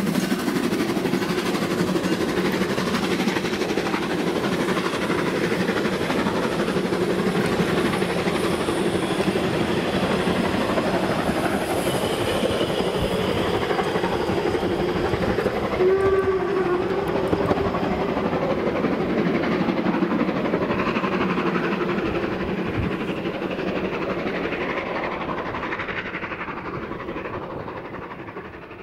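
Train running on rails: a steady rumble with clickety-clack, a short whistle-like tone about halfway through, fading away over the last few seconds.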